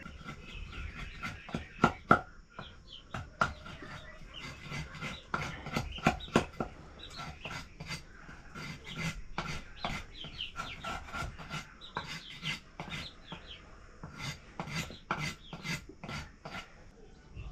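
Blade chopping chicken meat on a wooden board: many sharp, irregular chops and knocks, a few of them loud, with scraping in between.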